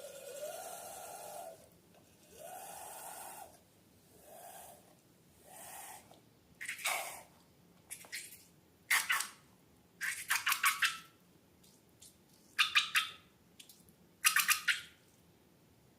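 Slime being squeezed and worked by hand: a few squeaky, hissing squirts at first, then a run of wet crackling, clicking squishes that grow louder toward the end.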